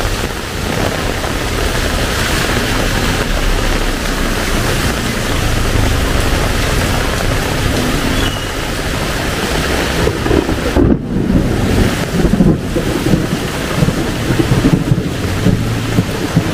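Heavy tropical rain pouring steadily, a loud even hiss. From about ten seconds in, uneven low rumbling buffets join it.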